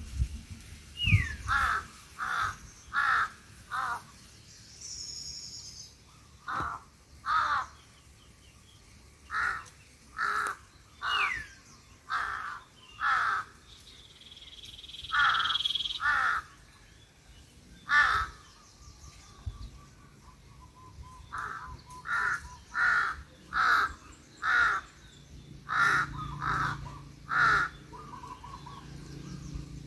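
Crows cawing: loud, harsh caws in runs of two to six with short pauses between runs, and a few fainter calls from other birds in the gaps.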